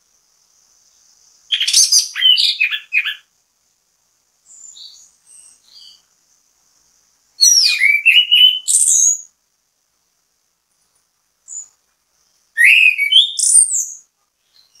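Chestnut-capped thrush (anis kembang) singing: three loud phrases of quick, varied, high whistled notes a few seconds apart, with a few softer notes in between.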